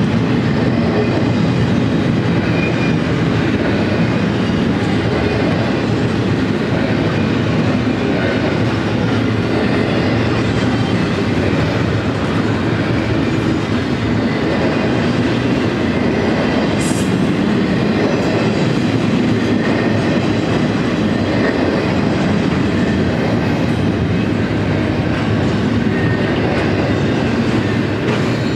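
Double-stack intermodal freight train's loaded well cars rolling past, a steady loud rumble and clatter of steel wheels on the rails.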